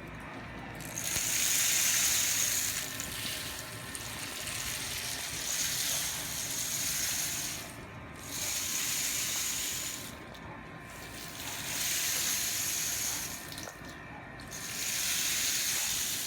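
Homemade cardboard-tube rain stick, studded with nails and filled with dried beans and corn, being tipped over and over. The filling trickles down past the nails in a rushing, rain-like hiss that comes in about five swells of a few seconds each, starting about a second in.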